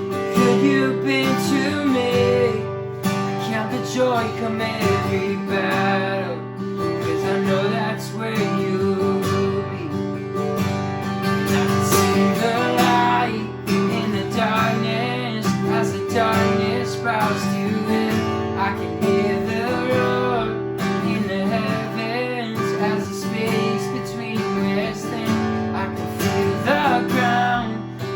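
Worship band playing: strummed acoustic guitar over steady sustained chords, with a wavering melody line on top.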